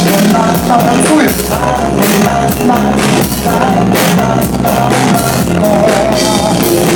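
Live pop-rock band playing the instrumental introduction of a dance song: a drum kit keeps a steady beat under electric guitar, loud, before the vocals enter.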